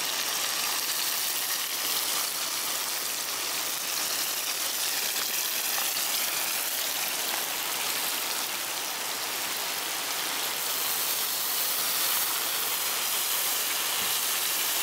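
Chicken frying in hot oil in a frying pan, sizzling steadily.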